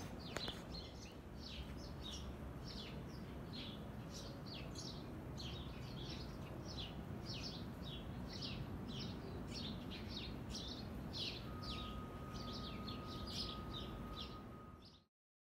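Small birds chirping repeatedly, several short chirps a second, over a low steady background rumble. A faint steady tone joins near the end, and the sound cuts off suddenly just before the end.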